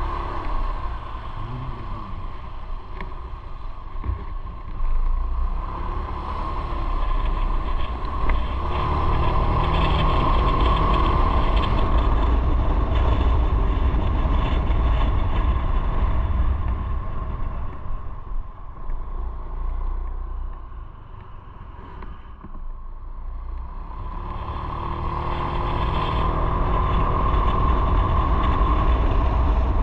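Motorcycle on the move: wind rushing over the microphone with engine and road noise. The sound falls off for a few seconds past the middle, then builds up again.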